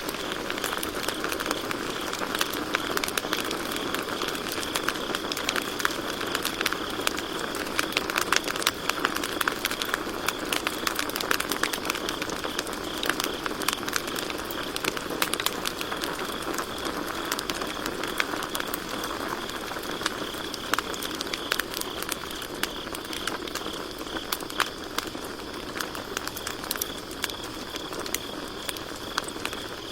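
Campfire crackling with many sharp pops and snaps throughout, over a steady high-pitched chirring of crickets.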